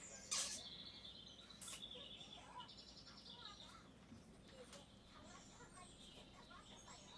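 Birds chirping faintly, with high repeated notes and short trills. A sharp click comes about a third of a second in, and a lighter one near two seconds.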